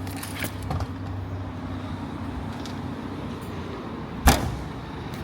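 A car's engine idles with a steady hum, with a few light clicks in the first second. About four seconds in, a car door slams shut with one loud thud.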